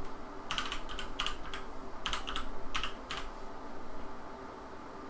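Computer keyboard keystrokes: about eight quick key taps over roughly two and a half seconds, typing in a rectangle's dimensions, with a faint steady hum underneath.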